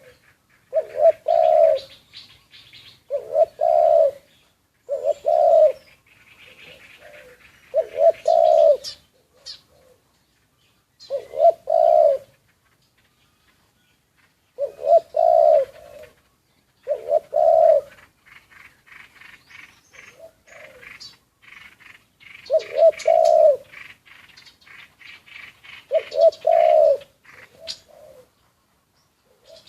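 Spotted dove cooing, a caged decoy bird repeating short coo phrases every two seconds or so, with pauses between some. Other small birds chirp at a higher pitch in between.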